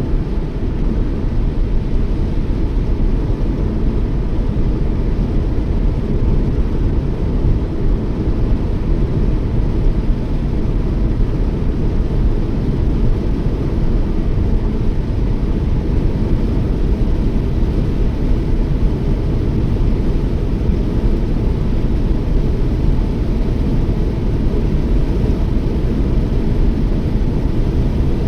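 Toyota Yaris driving at a steady speed: a constant low rumble of tyre and engine noise with no change.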